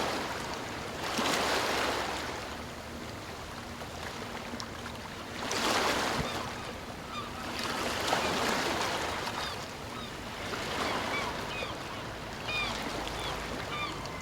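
Sea waves washing in, swelling and falling away every few seconds, with faint short high chirps over them in the second half.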